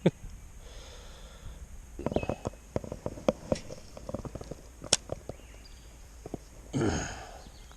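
Handling noises from fishing tackle as the lure is rehooked: a run of small clicks and taps, one sharper tick, then a short louder rushing thump near the end.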